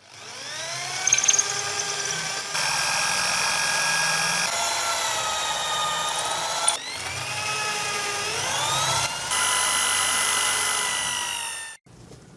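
A small electric power tool motor spinning up with a rising whine, then running with shifts in pitch as it works, and cutting off suddenly near the end.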